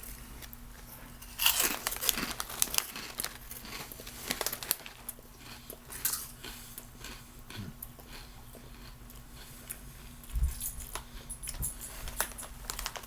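Hollow veggie straws being bitten and chewed: irregular crisp crunches, with some crinkling.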